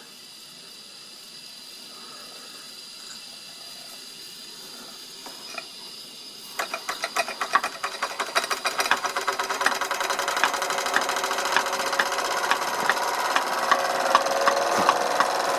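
Steady hiss of steam from a 1930s Bing twin-cylinder toy steam engine. About six and a half seconds in, the engine starts running with a fast, rattling clatter of clicks that grows louder.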